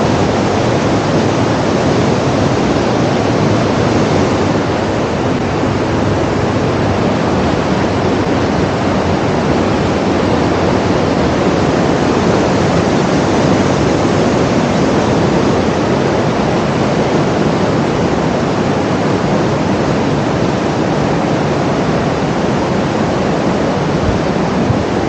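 A steady, loud rushing noise with no breaks and no distinct events, fullest in the low-middle range.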